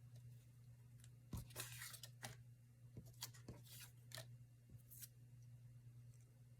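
Faint, scattered clicks and rustles of paper and craft supplies being handled at a worktable, about eight small sounds over several seconds, over a low steady hum.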